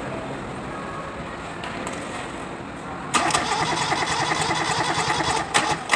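Kubota D650 three-cylinder diesel of a B6001 tractor being started: a low steady rumble, then about three seconds in a sudden, louder, fast even clatter with a brief dip shortly before the end.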